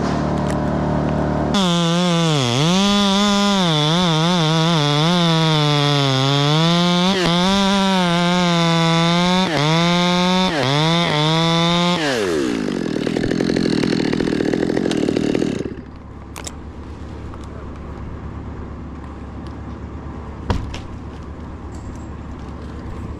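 Chainsaw cutting under load, its high engine note wavering up and down as the cut goes on. About twelve seconds in it winds down in pitch and soon stops. A quieter steady engine hum carries on underneath, with a single sharp click near the end.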